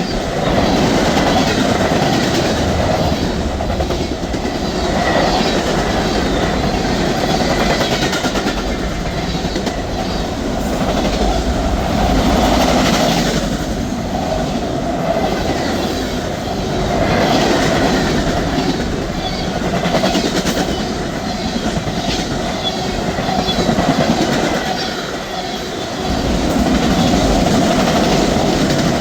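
A train's cars rolling past on the rails: a steady loud rumble with repeated clicking of the wheels over the rail joints, swelling and easing slightly as the cars go by.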